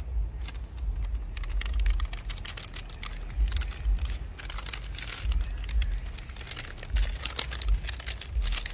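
MRE packaging crinkling and crackling in irregular bursts as the stew pouch is handled and turned, over a steady low rumble.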